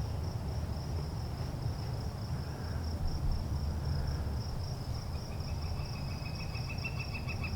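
Insects trilling steadily in a high pulsing drone, with a second, lower trill joining about five seconds in, over a low rumble.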